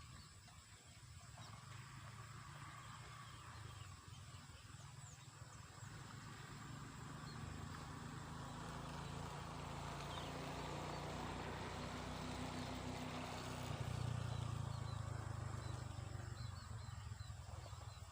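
Faint outdoor ambience with a distant motor vehicle passing: a low engine hum swells through the middle, peaks about three quarters of the way in and fades, over faint high bird or insect chirps.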